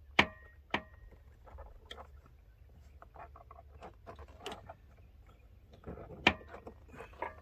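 Sharp knocks and clicks of a plastic interior truck door handle being pushed and worked onto its mount, with smaller rattles and handling noise between. The handle is not seating all the way. The strongest knocks come just after the start and again about six seconds in.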